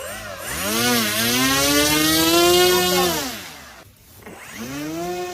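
Small engine of a home-built aircraft revving up and holding a steady high pitch for about two seconds, then dying down and revving up again.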